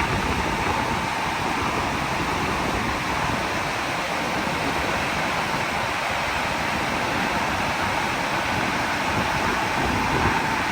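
Automatic car wash running: a steady rushing hiss with a thin steady whine under it.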